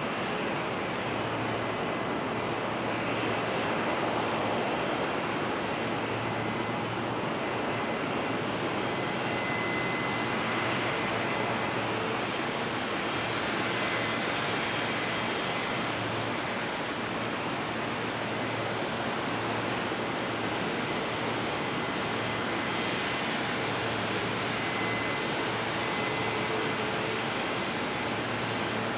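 Boeing 737-800's CFM56 jet engines running in a steady, even roar with faint high whine tones through it, as the airliner climbs out after takeoff.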